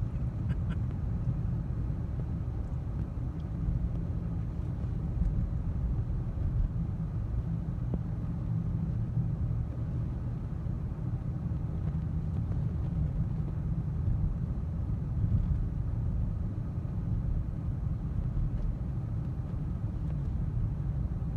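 Steady low road rumble inside a moving car's cabin, Michelin CrossClimate 2 tyres rolling on a snowy highway.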